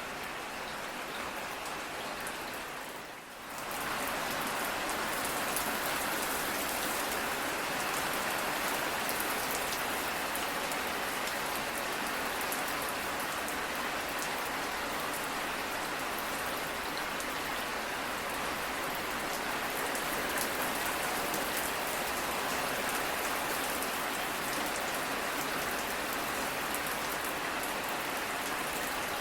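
Steady rain falling, an even hiss of drops. About three seconds in it dips briefly, then returns a little louder.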